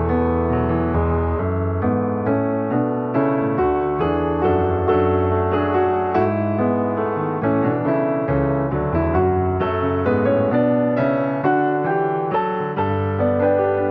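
Piano music: a steady, even run of notes with chords held beneath.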